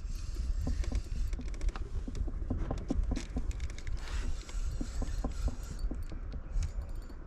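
Fishing reel being wound in with a hooked rainbow trout on, a run of quick irregular clicks over a low rumble of handling noise.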